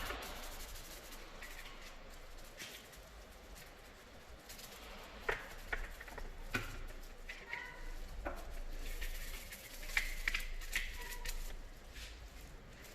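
Scattered light clicks and knocks of plastic engine-bay trim panels being handled and fitted on a BMW E90, with a few brief squeaks.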